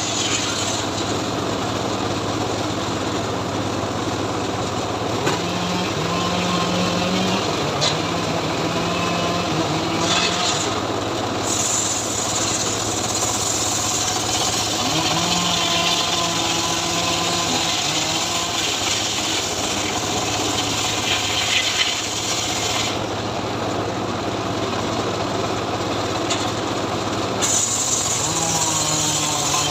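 Homemade engine-driven sawmill rig running steadily while sawing teak wood, with a constant low hum beneath the cutting noise.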